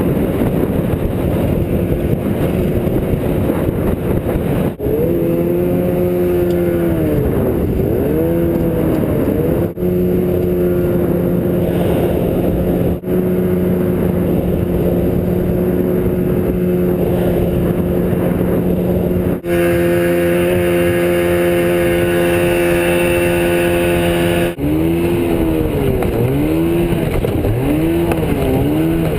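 Evinrude 50/35 two-stroke jet outboard driving a small jet boat, loud over a constant rush of wind and water. In some stretches it runs at steady throttle; in others its pitch swings up and down repeatedly as the throttle is worked. The sound breaks off abruptly several times where one clip cuts to the next.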